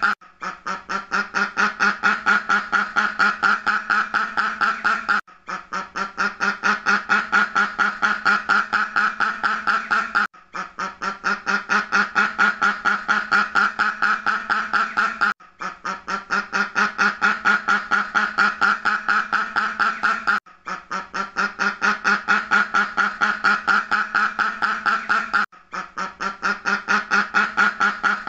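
Ducks quacking in a fast run of about five quacks a second. The sound-effect loop repeats about every five seconds, with a brief drop-out at each repeat.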